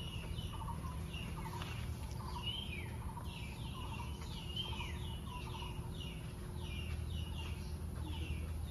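Birds calling over and over: many short downward-sweeping chirps and quick pulsed notes, several a second, over a steady low rumble.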